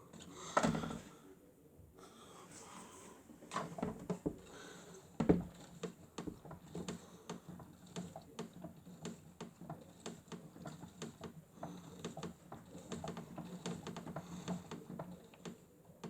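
Miele W1 toy washing machine running a wash cycle: a steady low motor hum with many irregular clicks and knocks, two of them louder, about half a second in and a little after five seconds in.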